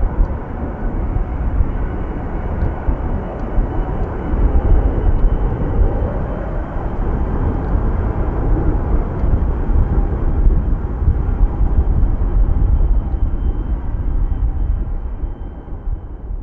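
Airplane engines rumbling, with a faint steady high whine over them, swelling and easing. Wind buffets the microphone.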